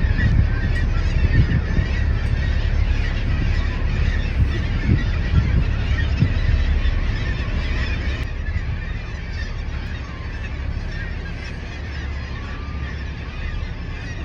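A large flock of seabirds calling together, many overlapping honking and chattering cries, over a steady low rumble. The calls grow sparser and a little quieter about halfway through.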